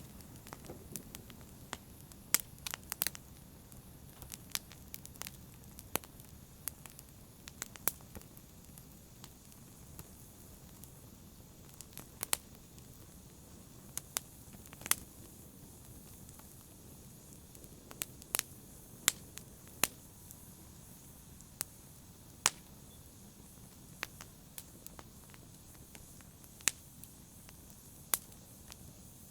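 Campfire burning, with sharp irregular crackles and pops from the burning wood over a low, steady hiss of flame.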